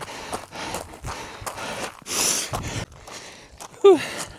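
A runner breathing hard, out of breath after hard hill intervals: quick, heavy breaths with a loud gasping breath about two seconds in and a short falling groan near the end.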